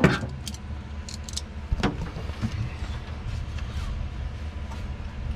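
A steady low hum with a few light clicks and taps of small hand tools, the sharpest about two seconds in.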